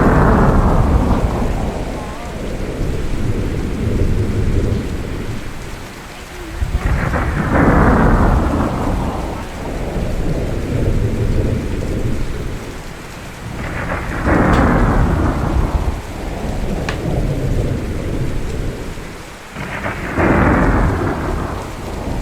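Rain falling steadily, with thunder breaking four times at even intervals of about seven seconds. Each clap starts suddenly and rumbles away over several seconds.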